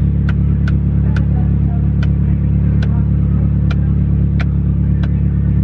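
Car engine idling, heard inside the cabin as a steady low rumble, with a scatter of sharp light clicks at irregular intervals.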